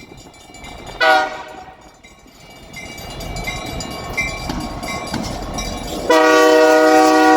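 Freight locomotive air horn: a short blast about a second in, then a long loud blast starting about six seconds in, with the rumble of the passing train between.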